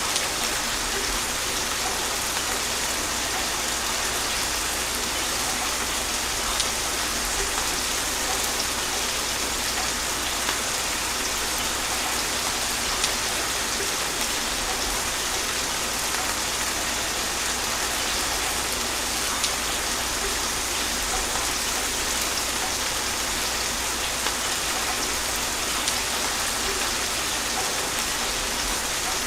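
Steady, gentle rain falling on a surface, an even hiss with scattered louder drop ticks, no thunder.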